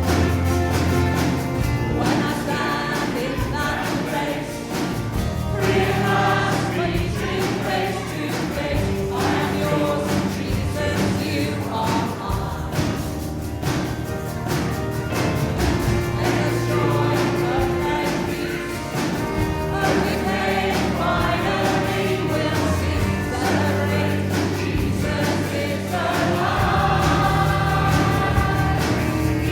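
Contemporary Christian worship song sung by a group of voices over instrumental backing.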